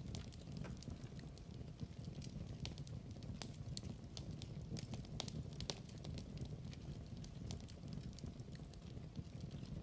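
Wood fire in a fireplace crackling, with many irregular sharp pops and snaps over a low steady rumble of burning.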